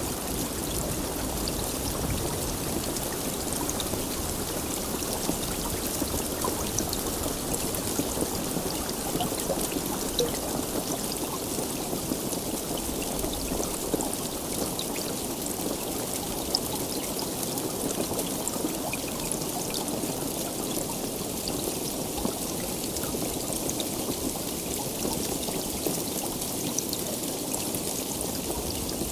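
Heavy rain falling steadily, with scattered sharp ticks of single drops through the even hiss.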